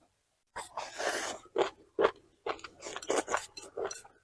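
Close-miked eating: crisp crunching and chewing of food in a quick run of bites and chews, about two to three a second, after half a second of dead silence.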